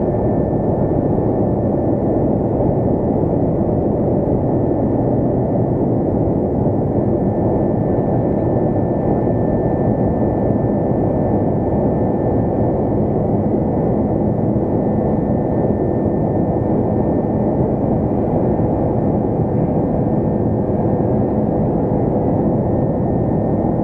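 Steady cabin noise inside an Airbus A330-200 airliner in the climb: a constant jet engine and airflow roar with a faint steady hum running through it.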